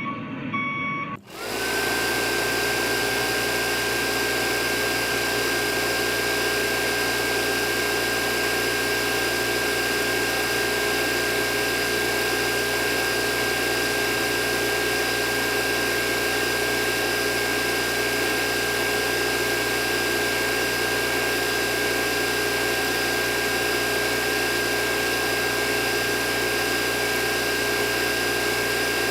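Small electric motor of a DIY water pump running steadily with a constant high whine. It starts about a second in, after a brief beeping.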